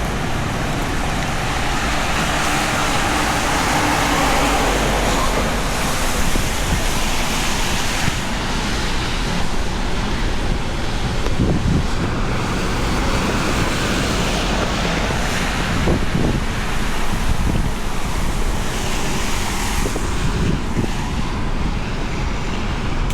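Heavy rain pouring steadily on a city street, with road traffic going by underneath.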